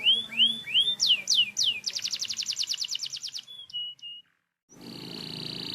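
Domestic canary singing: a run of whistled sweeping notes, then a fast rattling trill, a few short notes, a brief break, and another rolling trill.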